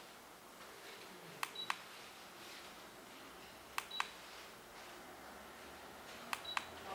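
Electric fireplace's control beeping: three times, about every two and a half seconds, a click followed by a short high beep and a second click. It is typical of the unit acknowledging a remote-control button press, such as stepping through flame settings.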